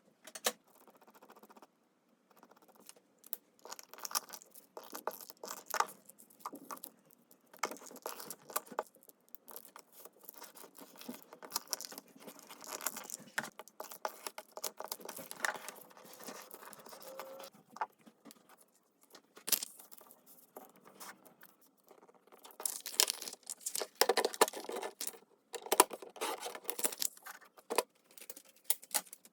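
Paper and small craft tools handled on a desk: irregular rustling and scraping of paper with sharp little clicks and taps, busiest near the end.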